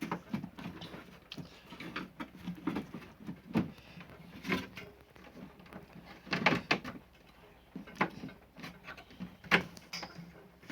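Irregular plastic clacks, knocks and rattles from the small air cooler's plastic casing being handled and taken apart, loudest in short clusters about four and a half and six and a half seconds in.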